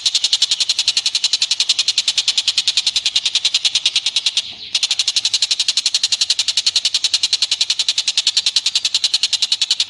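An animal's rapid, even chattering trill of high, sharp pulses, about a dozen a second, played as a continuous song-training recording. It breaks off briefly about halfway through, then resumes.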